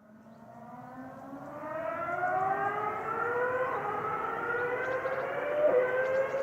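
Ferrari racing car engine under acceleration, growing louder as it comes in, its pitch climbing slowly and steadily through a long pull, with a brief dip near the end at a gear change.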